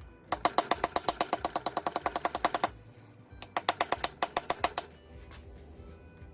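Rapid metallic clicking from a hand tool, about ten clicks a second, in two runs: one of about two and a half seconds, then a shorter one of about a second and a half.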